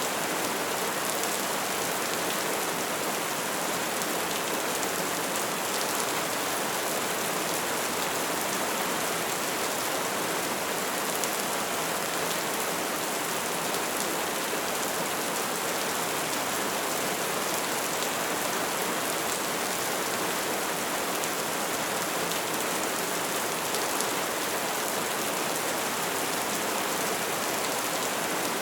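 Wood fire burning and crackling steadily: a constant rushing hiss with many small pops throughout.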